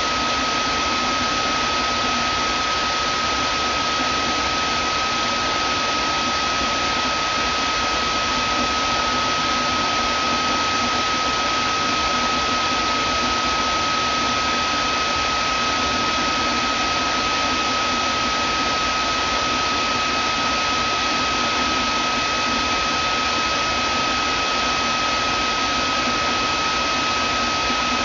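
Vacuum cleaner motor running steadily: a continuous airflow rush with a constant high whine, unchanging throughout.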